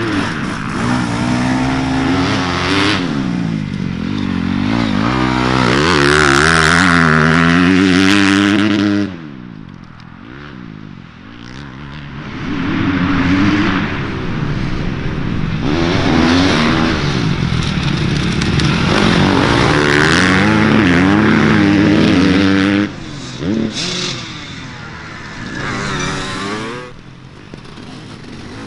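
Dirt bike engines revving up and down through the gears as bikes ride by in a race. There are two loud stretches, and each drops away suddenly.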